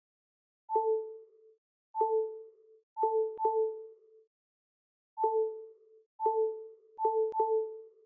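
A string of electronic ding tones, all on the same pitch. Eight short notes come at uneven intervals, two of them close together about three seconds in and two more near the end, and each starts with a click and dies away within about half a second.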